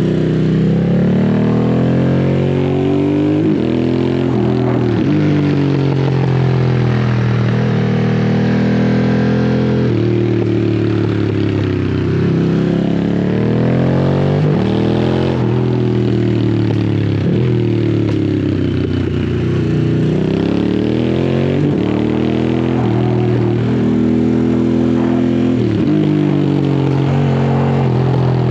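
Harley-Davidson Sportster S's liquid-cooled Revolution Max 1250T V-twin through a custom slip-on exhaust, running under a rider's throttle and gear changes, its pitch rising and falling again and again while kept at low revs.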